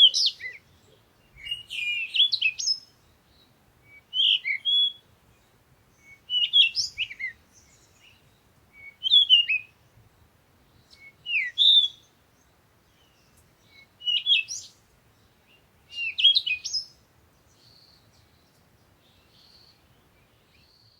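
A songbird singing short, varied phrases of quick sliding whistled notes, about one phrase every two seconds, with fainter calls over the last few seconds.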